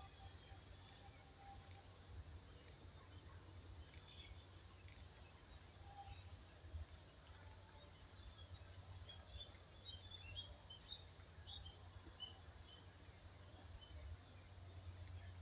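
Faint outdoor nature ambience: a steady high insect drone over a low rumble, with a few faint short bird chirps, most of them about midway through.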